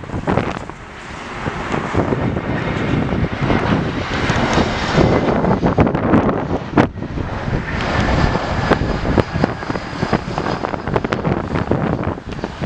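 Jet airliner's engines rushing past with a faint whine, heavily mixed with wind buffeting the microphone.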